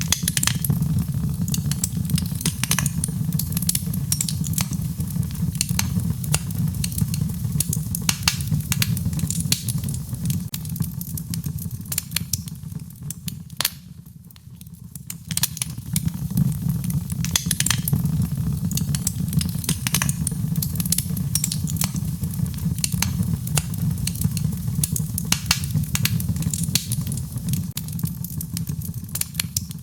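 Wood fire in a fireplace crackling, with frequent sharp pops and snaps over a steady low rumble. The crackling eases briefly about fourteen seconds in.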